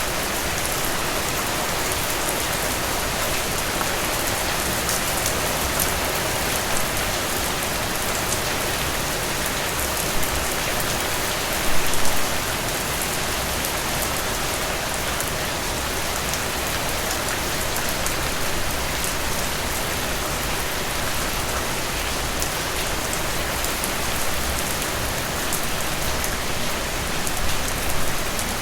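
Steady rain falling, an even hiss of many drops, with a brief louder patch of drops about twelve seconds in.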